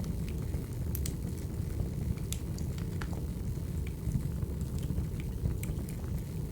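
Wood fire burning: a steady low rumble of flames with scattered sharp crackles from the burning logs, one to three a second.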